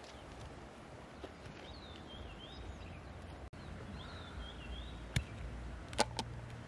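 A small bird sings two short warbling phrases, then near the end come a few sharp clacks of hard clam shells knocking together in a wicker basket.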